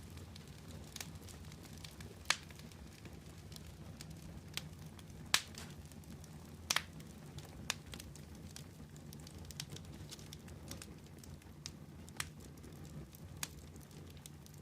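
Wood fire burning with a steady low rumble and irregular sharp crackles and pops, a few of them louder, about two, five and seven seconds in.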